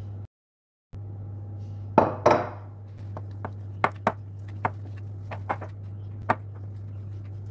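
Kitchen dishes and utensils clattering while food is prepared: two loud clanks about two seconds in, then a run of light clinks and taps, over a steady low hum.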